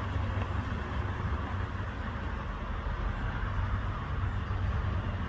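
Light aircraft's piston engine heard overhead as a steady drone, running rough: the onlooker calls it sputtering, a sign of engine trouble.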